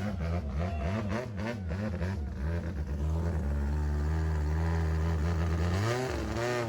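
Thai longtail drag boat's engine revving: short up-and-down blips of the throttle for about three seconds, then held at steady high revs for about three seconds before the pitch drops and swings again near the end.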